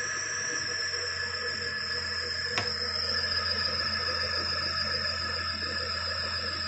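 4 kW induction motor running on a homemade frequency inverter, with a steady high-pitched whine over a low hum. A single sharp click about two and a half seconds in.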